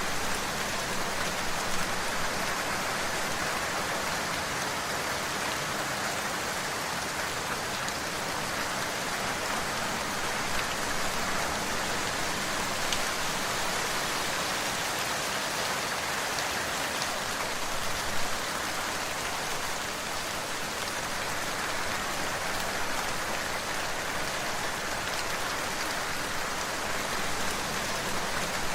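Steady rain falling on a surface, an even hiss with scattered individual drops tapping, and a few slightly louder drops now and then.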